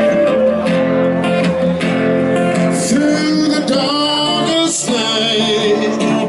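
Live music from a slow ballad: sustained organ chords with a male voice singing.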